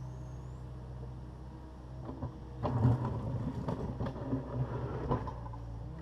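Takeuchi TB260 excavator's diesel engine running steadily. From about two and a half seconds in to about five seconds there is a stretch of clattering and scraping as the machine works concrete and rubble, with the engine coming under load.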